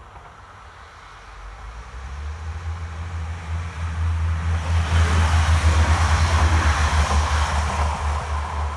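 Two-car diesel multiple unit passing a level crossing. It approaches with a growing low engine hum and the rush of wheels on rails, is loudest about five to seven seconds in as it goes by, then starts to fade.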